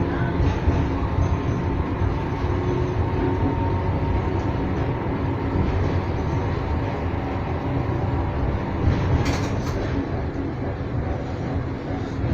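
Blackpool tram running along the track: a steady rumble with faint steady tones, and a couple of short sharp clicks about nine seconds in.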